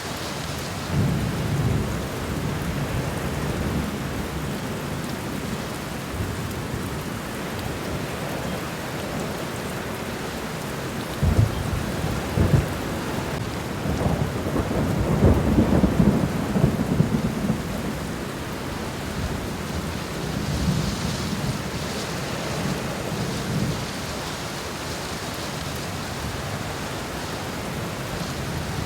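Steady rainfall hissing on the ground and garden leaves. Deep low rumbles swell up now and then, loudest a little past the middle.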